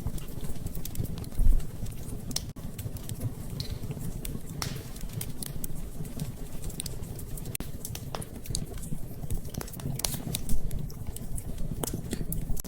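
Wood fire crackling in a fireplace: irregular sharp pops and clicks over a steady low rumble of the flames, with a low thump about a second and a half in and a louder pop near the end.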